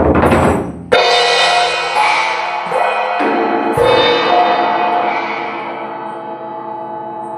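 A loud, dense wash of metal percussion is damped off just under a second in. Then a series of struck metal sound-healing instruments (bells and bowls) ring out, about five strikes, their many steady tones overlapping and slowly fading.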